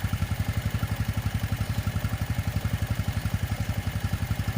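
Honda Wave 125's single-cylinder four-stroke engine idling with a steady, even pulse. It is freshly filled with new oil and running quiet, with no engine noise.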